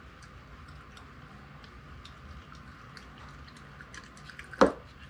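Soft, wet mouth clicks and smacks of someone chewing a spongy canned chicken luncheon meat, then one sudden loud burst near the end.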